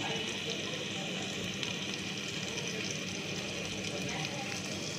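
Cooking fat sizzling on a flat steel griddle with chopped masala frying in it: a steady, crackling hiss.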